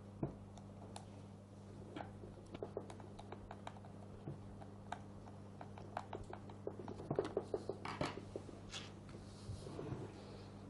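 Scattered small clicks and taps of plastic housing parts and screws being handled while the switch cover of a Bosch GSH 5 demolition hammer is fitted and screwed down, busiest about two-thirds of the way through, over a faint steady hum.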